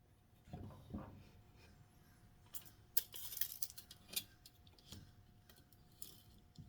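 Scattered light clicks, taps and rattles from handling a tape measure, a pencil and 2x2 wood posts while measuring and marking them, busiest a few seconds in. A faint steady hum runs underneath.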